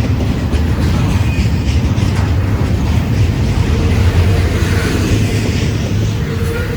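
A freight train rolling past, with the steady rumble of its cars' wheels on the rails.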